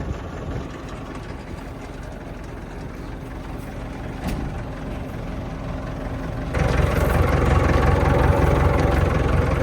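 Tractor engine idling steadily, then much louder and fuller from about six and a half seconds in.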